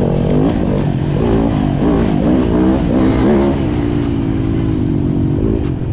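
Dirt bike engine revving, its pitch rising and falling with the throttle for a few seconds, then holding a steady pitch before easing off near the end, over a heavy low wind rumble.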